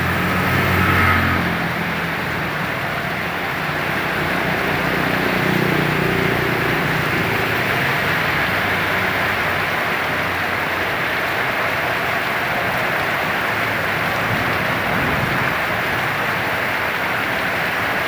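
Steady heavy rain and wind noise with road traffic, a vehicle engine humming low in the first second and again briefly around six seconds in.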